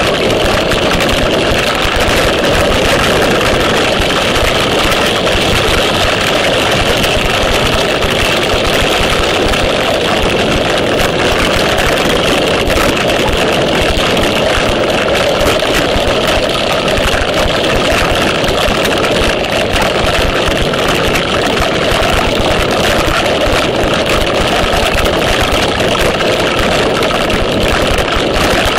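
Torrential rain falling steadily, a dense unbroken hiss of heavy rain hitting and splashing on nearby surfaces.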